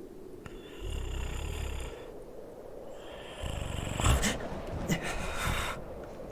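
A man voicing a sleeping werewolf's snoring: one low, rough snore about a second in, then a longer, louder stretch of noisy breathing from about three and a half seconds in.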